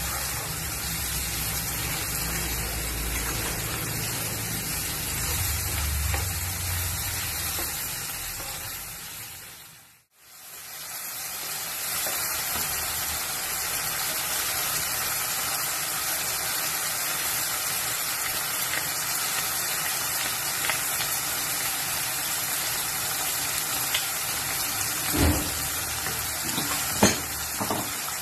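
Chicken pieces and minced garlic sizzling in hot oil in a pan, stirred with a wooden spatula. The sizzle fades out and back in about ten seconds in, and a couple of light knocks come near the end.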